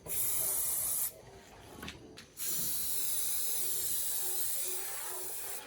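Pressurised spray hissing from a nozzle in two bursts: a short one of about a second, then after a pause a longer one of about three seconds.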